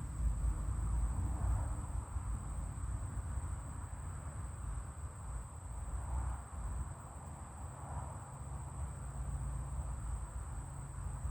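Outdoor ambience: a low, uneven rumble of wind on the microphone under a steady high-pitched insect drone.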